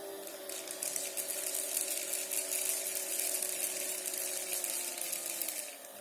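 Small battery-powered motor spinning the fan of a homemade water-bottle vacuum cleaner, running with a steady whine. About half a second in, a dense high hiss with fine rattling starts over it and stops shortly before the end, and the whine's pitch drops slightly near the end.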